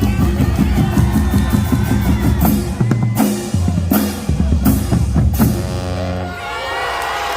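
A marching band plays a loud passage of drums and low brass, with sharp hits on the beat, and stops about six seconds in. Crowd shouts and whoops follow.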